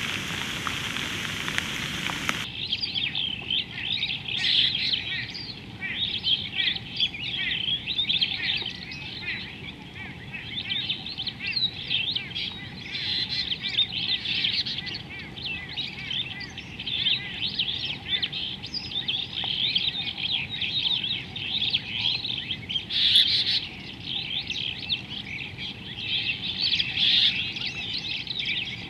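Rain hissing for about the first two seconds, cut off abruptly; then many birds chirping and chattering at once in a dense, continuous chorus of quick overlapping high calls, with a louder flurry a little before the end.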